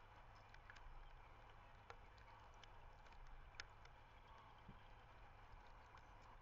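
Near silence from an outdoor webcam microphone: a low steady rumble with scattered faint ticks and clicks, two of them a little sharper about two and three and a half seconds in.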